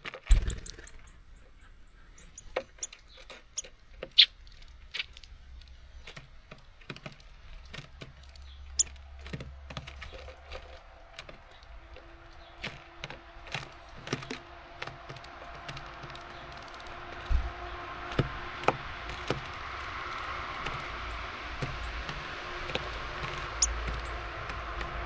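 Small birds feeding at a wooden feeder: irregular sharp taps and clicks of beaks pecking at seeds and feet landing on wood. A faint steady hum and hiss come in during the second half.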